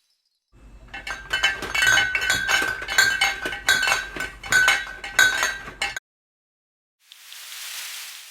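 A rapid run of clinks and rattles, like glass or china knocking together, with a short ringing note that recurs, cutting off abruptly about six seconds in. Near the end a whoosh swells up and fades away.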